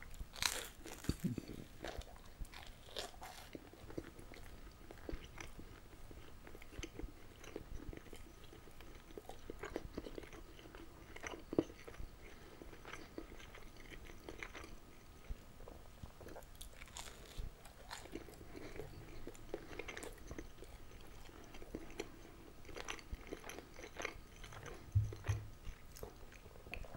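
Close-miked eating of a slice of toast. A crunchy bite comes just after the start, then irregular crunching and wet chewing as it is eaten, with a soft low thump near the end.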